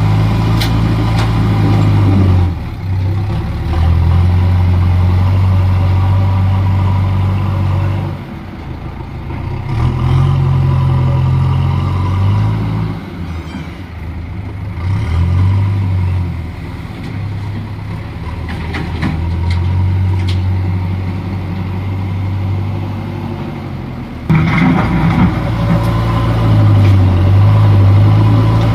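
Backhoe loader's diesel engine running at work, a deep drone that swells and eases as the load changes. It is quieter through the middle and picks up loudly near the end, with a few clanks over it.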